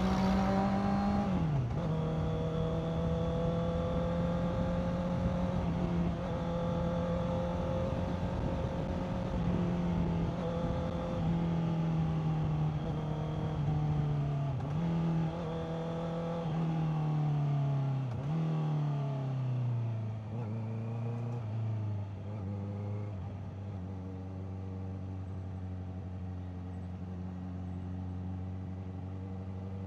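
Honda CBR650R's inline-four engine under way. There is a quick gear change about a second in, then steady running. Through the middle the engine note falls in several steps and dips as the bike slows, settling into a lower steady note for the last third.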